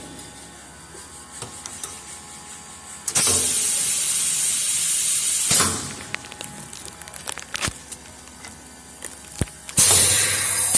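Aerosol gas filling machine working through a can: a loud hiss of about two and a half seconds a few seconds in, some light clicks, then another loud hiss starting just before the end.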